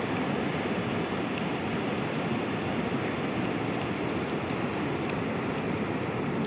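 Sea surf washing steadily on the shore, a continuous rushing noise with faint scattered high ticks.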